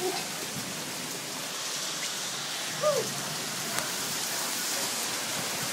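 Heavy rain with hail falling, a steady hiss with a few faint ticks. One short voice sound about three seconds in.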